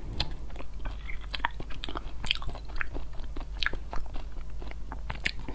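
Mouth sounds of eating thick lotus root starch paste with nuts off a spoon: chewing and biting with many irregular sharp, crunchy clicks.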